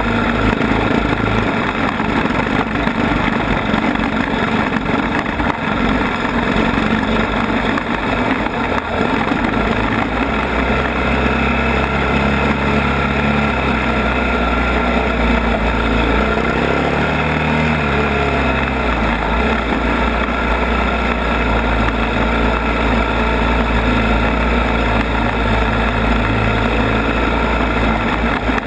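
ATV engine running steadily during a trail ride, its pitch rising and falling with the throttle around the middle.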